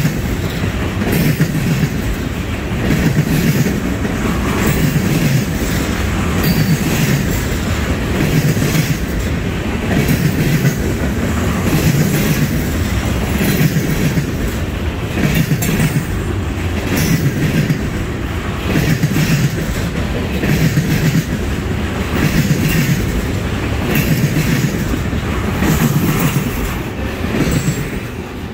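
Freight cars of a Norfolk Southern trash train rolling past close by: a steady rumble and clatter of steel wheels on the rails, with a low rhythmic beat about every second and a half as each car's wheel sets go by. The sound falls off near the end as the last cars pass.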